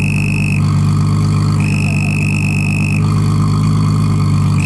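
Toyota 2JZ straight-six running steadily through its exhaust, with a high pitched whistle from a cheap exhaust 'turbo whistle' insert coming and going about three times. The whistle works only with a silencer narrowing the large exhaust pipe, and it does not sound like a real turbo whistle.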